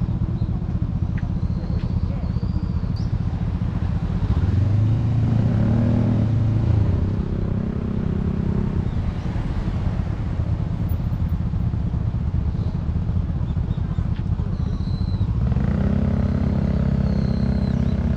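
Honda CBR400R's parallel-twin engine running at low speed in slow traffic, its note growing louder and stronger twice, about four seconds in and again near the end. A few short high chirps sound over it.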